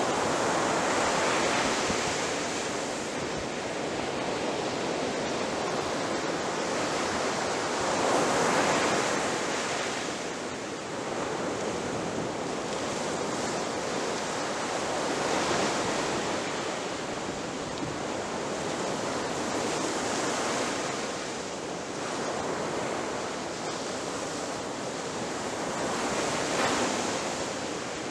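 Ocean surf breaking on a shore: a continuous rushing wash with waves swelling and crashing every several seconds, the strongest about a third of the way in and again near the end.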